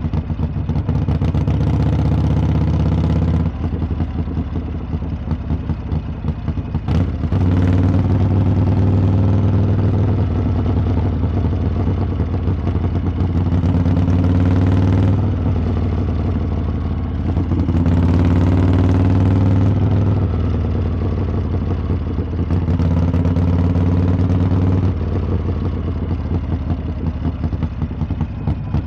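Harley-Davidson V-twin motorcycle exhaust under way, the throttle opened and closed several times: the note swells and climbs in pitch on each pull, then drops back. A sharp click cuts through about seven seconds in.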